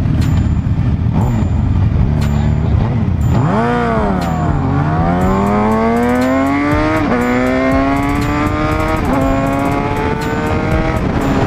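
Motorcycle engine accelerating hard through the gears: the note dips and then climbs about a third of the way in, drops sharply at two upshifts and keeps rising between them, over steady wind rumble.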